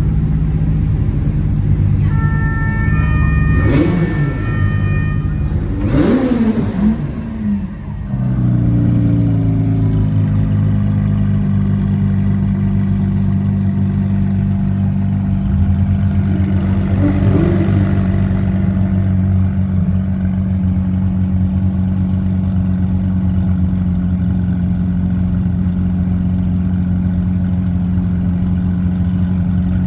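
Lamborghini Countach LPI 800-4's V12 engine revving briefly twice, about four and six seconds in, then running at a steady idle.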